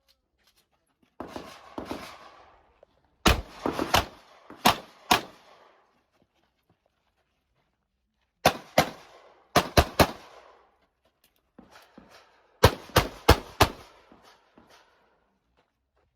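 Gunfire from a practical-shooting stage: three quick strings of shots, each four or five sharp reports with a short echo, separated by pauses of a few seconds. Some rustling movement comes just before the first string.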